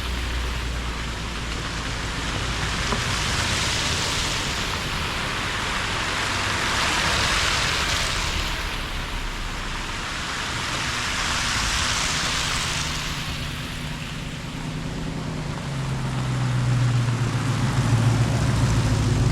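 Vehicles on a wet road in the rain: a hiss of rain and wet tyres that swells and fades several times. An engine's low hum comes up over the last few seconds.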